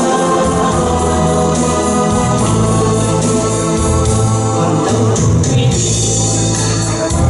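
Instrumental music, likely a song's intro: sustained organ-like keyboard chords over a moving bass line, with a bright high percussion shimmer joining about five seconds in.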